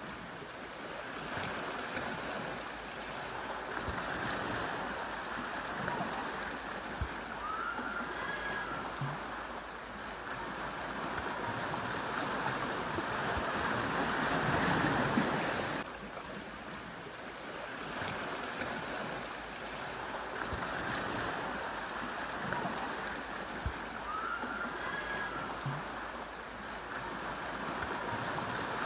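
Sea waves washing onto a beach: a steady rushing hiss that swells and eases, with a faint short rising chirp twice.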